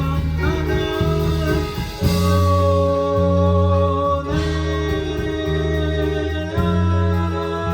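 Live rock band playing a song, with deep bass notes held and changing about every two seconds under guitar.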